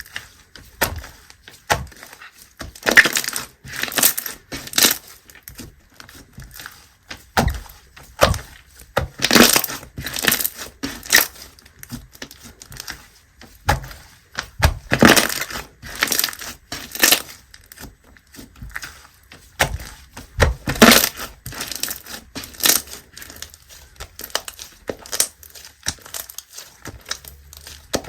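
Clear slime being squished and pressed by hand, giving irregular sharp clicks and crackly pops, with louder clusters every few seconds.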